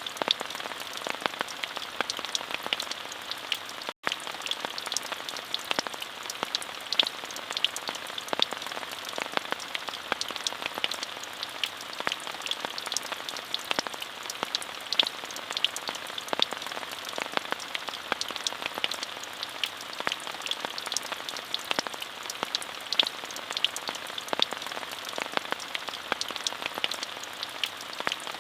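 Steady rain with many individual drops tapping, an even hiss without pauses, broken only by a momentary dropout in the sound about four seconds in.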